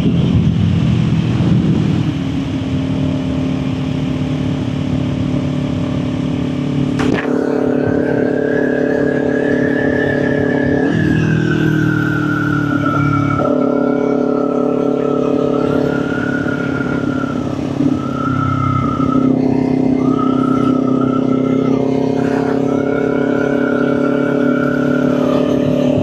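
Kawasaki Ninja 400's parallel-twin engine running under way on a country road, heard from the rider's seat. The engine note holds steady but steps in pitch a few times, and a higher steady tone sits above it from about a quarter of the way in.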